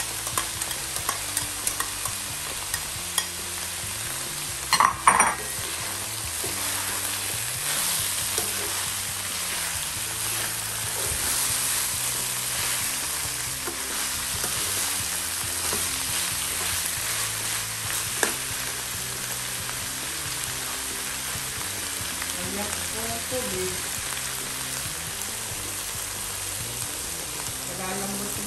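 Stuffed-milkfish filling of flaked fish, carrots and diced potatoes sizzling in an oiled nonstick wok while a metal spatula stirs and scrapes through it, with light clicks. A sharp metal clatter about five seconds in is the loudest sound, and near the end water is poured into the pan.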